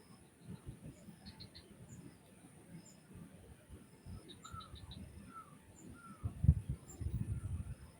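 Zebra dove (perkutut) calling faintly in a few short soft notes in the second half, with quick high chirps from small birds and a steady high insect hiss. Low rumbling bumps, loudest after about six seconds, sit under the calls.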